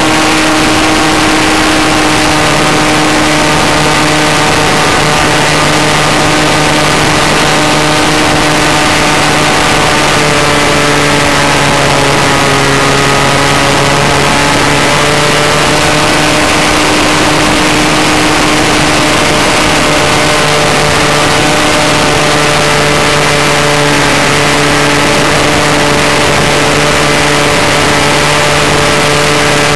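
Falcon 56 RC model airplane's engine and propeller running steadily, heard up close from an onboard camera with a constant rush of wind. The pitch dips slightly about twelve seconds in and then comes back up.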